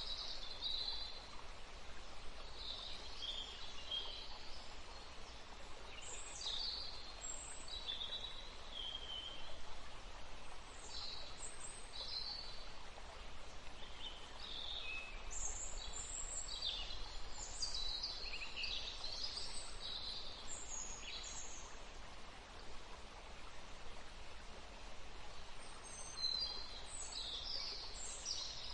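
Songbirds singing: many short chirps and quick trilled phrases, thinning out for a few seconds near the end before the calls pick up again, over a steady faint outdoor hiss.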